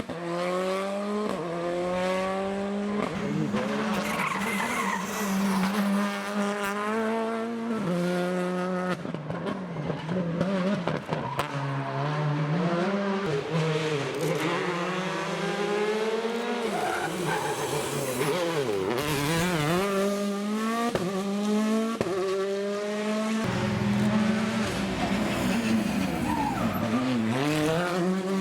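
Rally cars driven hard on an asphalt special stage: engines rev up through the gears and drop in pitch under braking, again and again, with tyre squeal. The sound changes abruptly twice, as from one car or spot to another.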